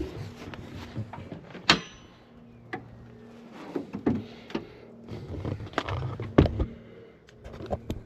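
Irregular knocks, clicks and clunks of a pickup's hood being released and handled, with a sharp clack about 1.7 s in and another loud knock near 6.4 s, over a faint steady hum.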